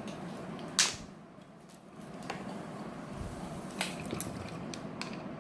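Painting materials being handled on a table: one sharp click a little under a second in, then a few faint clicks later, over a steady low background hiss.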